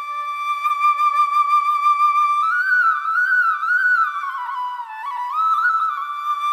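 Background music: a solo flute playing a slow melody of long held notes, with wavering slides and turns between them.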